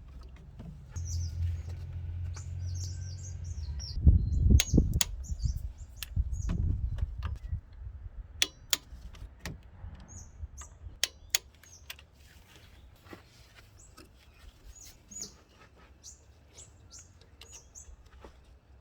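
Small birds chirping again and again, short high chirps. Sharp clicks and knocks come throughout, with a low rumble and heavy thuds in the first several seconds.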